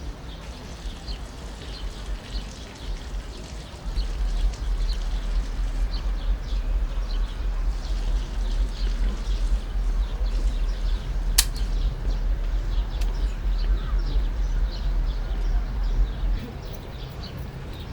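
Outdoor ambience: a low rumble that grows louder about four seconds in and eases off near the end, with short high chirps from birds scattered throughout. There is one sharp click about halfway through.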